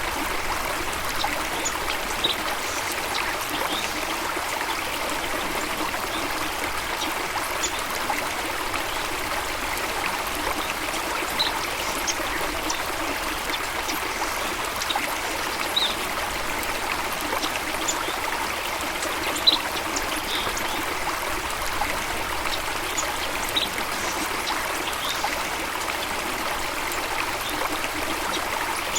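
Stream water running and trickling steadily, with faint short high bird chirps now and then and one brief louder splash about two-thirds of the way through.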